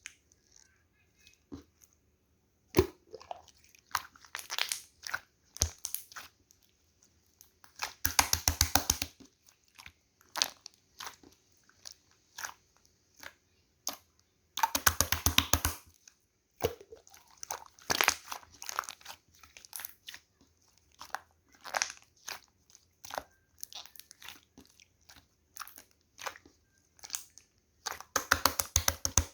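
Opaque light-green slime being played with, giving many small crackling, popping clicks. There are three dense runs of rapid clicks: about eight seconds in, around fifteen seconds, and near the end.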